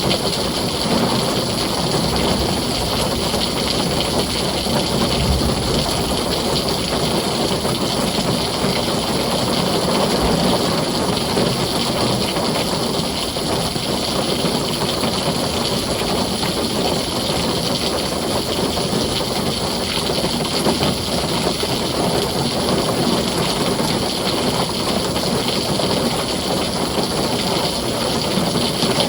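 Heavy rain falling steadily on a tin roof, an even rain noise with no breaks and no clear thunderclap.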